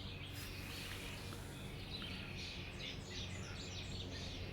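Songbirds chirping and singing in short, overlapping phrases, over a steady low hum.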